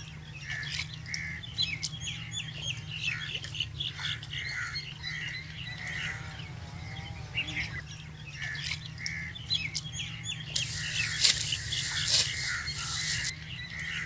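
Several small birds chirping and calling, with short repeated chirps and a few wavering whistled notes, over a steady low rumble. About ten seconds in, a loud rushing noise runs for roughly three seconds and stops suddenly.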